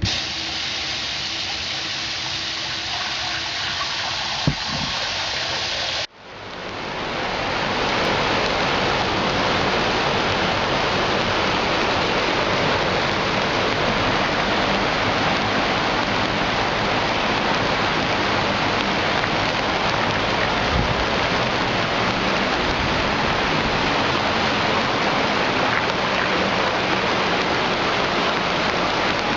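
Heavy rain with storm runoff rushing down a street, a dense, steady rushing. A brief break about six seconds in, after which the rushing is louder; a single sharp click just before the break.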